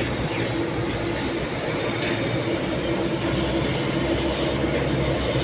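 Steady mechanical rumble of a vehicle in motion or running, with a constant low hum and no sudden changes.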